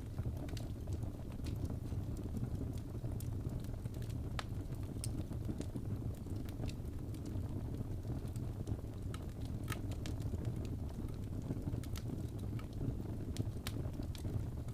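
Wood fire burning in a fireplace: a steady low rumble of the flames with sharp, irregular crackles and pops from the burning wood.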